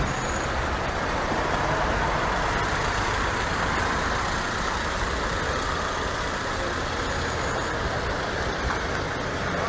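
Steady motor-vehicle noise, engine and road sound running evenly with no sudden changes.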